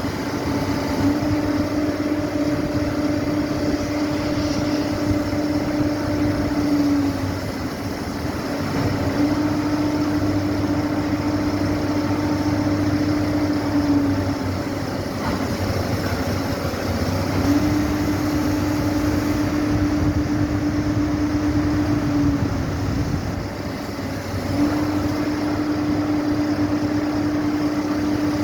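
Steady mechanical running noise, with a pitched hum that cuts in for about five seconds at a time and drops out briefly between, several times over.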